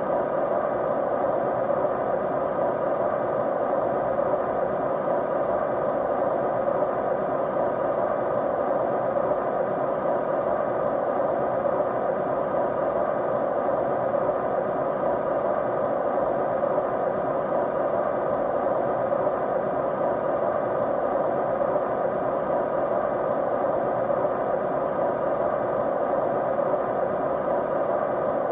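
Steady white noise, a continuous even hiss centred in the middle range, with a few faint steady tones running through it and no change in level.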